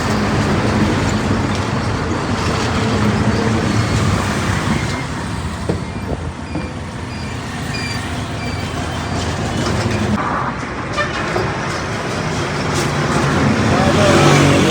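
Steady roadside traffic noise: motor vehicles running and passing on the road.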